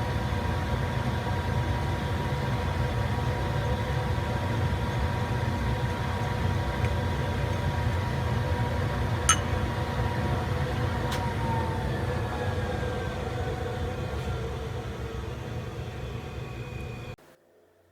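Metal lathe running steadily, a low rumble with a steady whine on top. Past the middle the whine drops slightly in pitch, with one sharp click about nine seconds in, and the sound cuts off abruptly just before the end.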